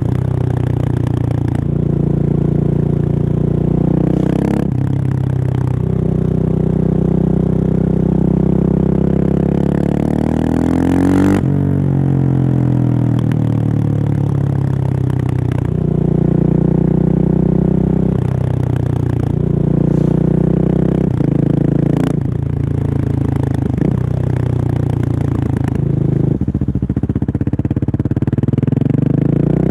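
Husqvarna 701's single-cylinder engine through a Remus exhaust with the dB killer removed, pulling hard under way: the engine pitch climbs again and again, broken by gear changes and throttle lifts several times.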